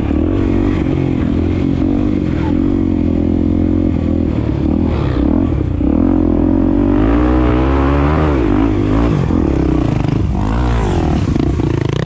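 Honda Tornado 250 single-cylinder four-stroke motorcycle engine running under load, its revs rising and falling repeatedly as it is ridden.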